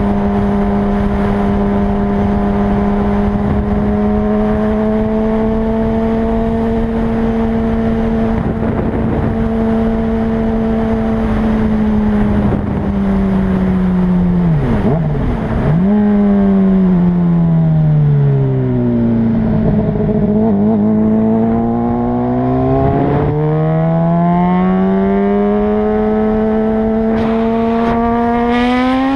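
2008 Honda CBR600RR's inline-four running through an MBRP slip-on exhaust while riding, with wind rushing over the microphone. The revs hold steady for the first half, dip sharply twice about halfway through, then fall away to a low hum and climb steadily again near the end.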